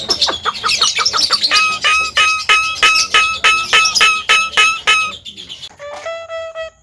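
Javan myna calling: a quick run of harsh notes, then a steady series of short, clipped, evenly spaced notes at nearly four a second, and a longer held note near the end.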